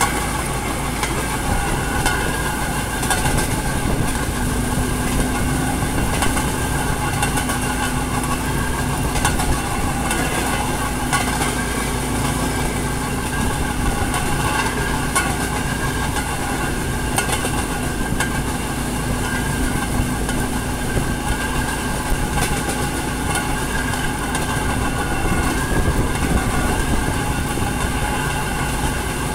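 Narrow-gauge rail vehicle running along the track: a steady engine hum under the clack of its wheels over rail joints.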